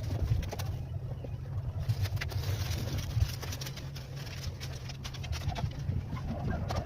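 Pigeons cooing over a steady low rumble, with scattered light clicks.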